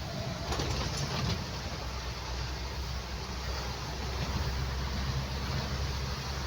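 A vehicle driving in heavy rain, heard from inside: a steady low rumble of engine and tyres under an even hiss of rain and wet road. There are a few brief taps in the first second or so.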